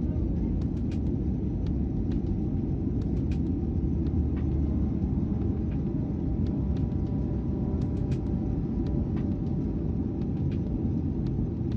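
Steady low rumble of a Boeing 737-800's jet engines heard from inside the cabin during the climb after take-off, with faint steady tones above it and scattered sharp clicks or rattles.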